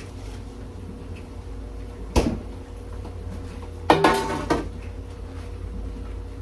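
Kitchen cookware clatter: a single sharp knock about two seconds in, then a short burst of metallic clattering with some ringing about four seconds in. A steady low hum runs underneath.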